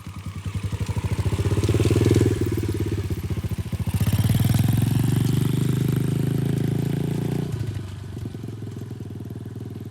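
125cc dirt bike engine under throttle as it is ridden, rising in revs, easing off a little over two seconds in, pulling again from about four seconds, then dropping back to a lower, steadier run near the end.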